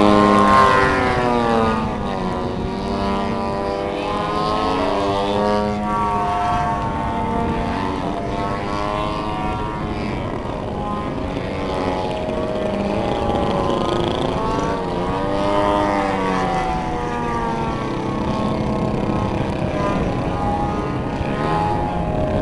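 Engine of a giant-scale radio-controlled aerobatic airplane (a 104-inch Slick) running in flight, its pitch rising and falling repeatedly as the throttle changes and the plane passes through manoeuvres.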